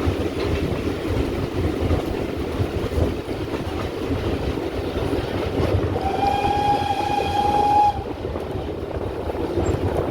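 GWR 2-8-0 tank engine 5239 Goliath running, with a steady rumble. About six seconds in, its steam whistle gives one level blast lasting about two seconds.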